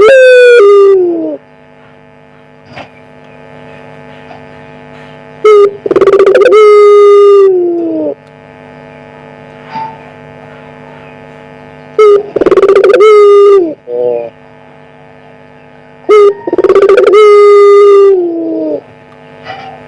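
Puter pelung dove cooing loud and drawn-out, four times: each coo a short note followed by a long held note that falls in pitch at its end. A steady hum runs underneath.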